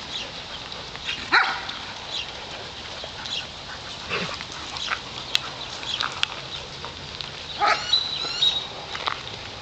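Dogs barking a few short times, loudest about a second in and again near the end.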